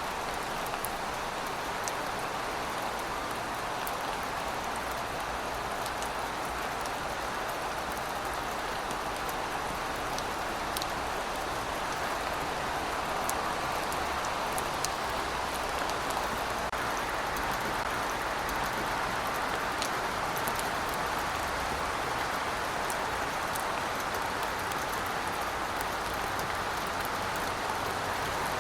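Steady rainfall: an even hiss of rain with scattered sharp ticks of individual drops.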